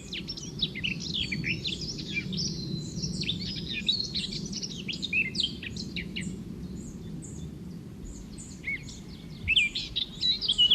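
Several birds chirping and calling in quick, overlapping short notes and whistles over a steady low background noise, growing louder near the end.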